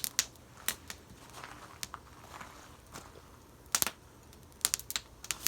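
Wood campfire crackling, with irregular sharp pops over a faint hiss. A quick cluster of louder pops comes just before the four-second mark, and another comes near the end.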